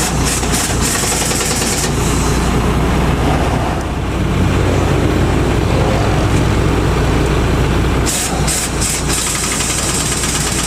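Heavy diesel truck engine running steadily. Short bursts of hiss come about 8 seconds in, then a steadier hiss, like compressed air escaping.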